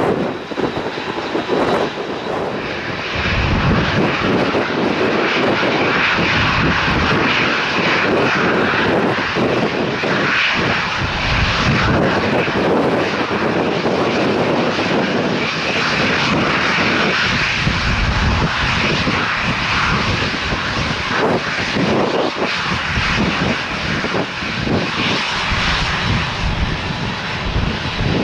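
Jet airliner's engines running with a loud, steady roar, while gusts of wind buffet the microphone.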